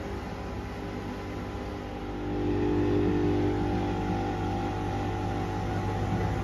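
Pasvens Cottons 40 washing machine running through a wash cycle: a steady motor hum that gets louder, with a higher whine joining it, about two seconds in.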